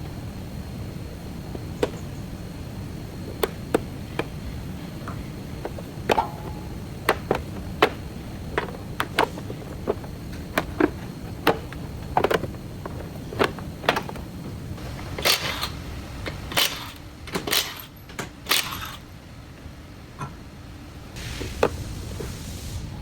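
Irregular sharp clicks and knocks over a steady low hum, with a few short hissing bursts past the middle and a longer hiss near the end.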